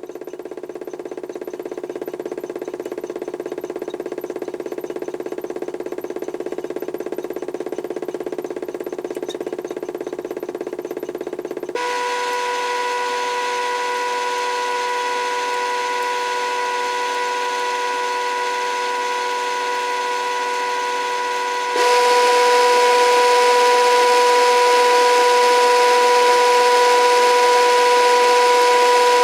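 Modified toy washing machine's HUSTOO 775 DC motor, driven by PWM, running its drum with a steady whine, stepping up louder twice, about 12 seconds in and again about 22 seconds in, as the programmed drive power rises.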